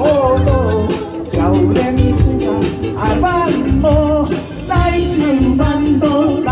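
Live pop band playing a song: a wavering lead melody, sung or played, over bass guitar and a steady drum beat.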